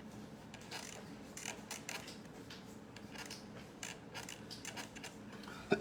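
Faint, irregular scratchy strokes of a pen drawing on paper.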